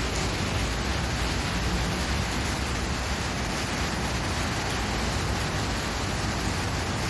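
Steady, even hiss-like noise with no distinct events in it.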